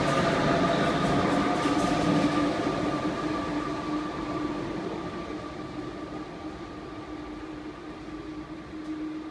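Double-deck RER Line A electric train pulling out and moving away. Its rolling noise and a steady hum fade gradually as it recedes.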